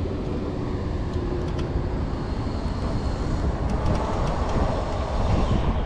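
Steady rumbling road noise from an e-bike rolling along a city street, with scattered light clicks and rattles.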